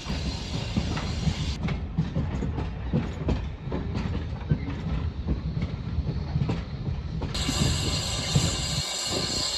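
Railway carriage on the move, heard from aboard: a steady low rumble of the running gear, with the wheels clicking over the rail joints. A steady hiss joins in near the end.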